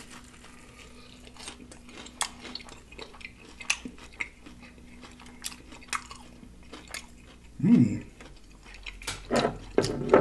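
Close-miked chewing of crispy fried catfish: a run of crunchy clicks and wet mouth sounds. Near the end come two louder, low hums of the voice.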